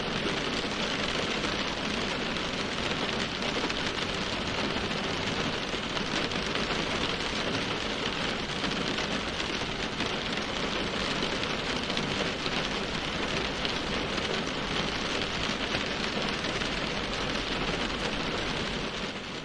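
Steady heavy rain falling on a surface, an even hiss without breaks.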